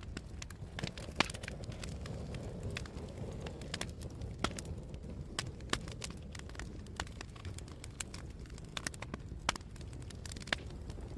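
Wood fire burning in a fireplace, crackling with irregular sharp pops over a steady low rush. The sharpest pops come about a second in and again near four and a half seconds.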